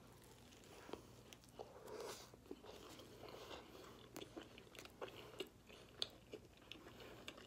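Faint close-up mouth sounds of a person biting into and chewing a soft breakfast sandwich: irregular small wet clicks and smacks.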